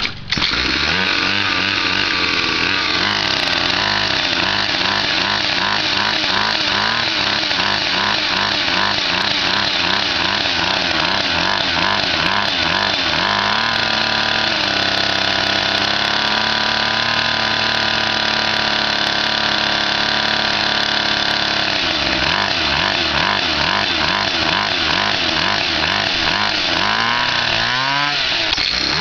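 Gio pocket dirt bike's small engine running. Its speed wavers up and down unsteadily, holds a steadier, higher speed for several seconds in the middle, then wavers again and rises near the end.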